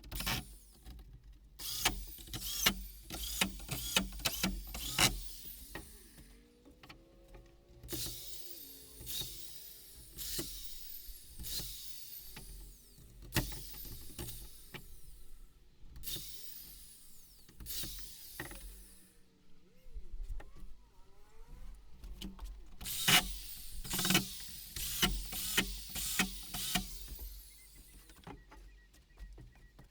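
Workshop assembly sounds: a small power-tool motor running in repeated short bursts, among sharp knocks and clatter.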